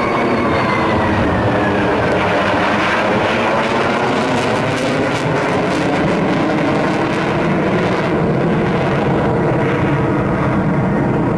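Sukhoi Su-27 fighter jet's twin AL-31F turbofan engines flying past: a high whine falls in pitch over the first three seconds, then a loud, steady jet roar.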